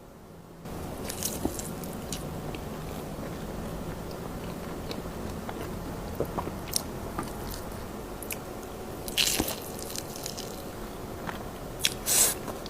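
Close-miked eating: steady chewing with wet squishing and sharp crunchy bites, the loudest crunches about nine seconds in and again near the end.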